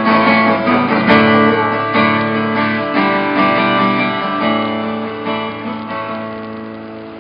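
Acoustic guitar strumming chords, a new strum about once a second, each one left to ring, the sound slowly dying away toward the end.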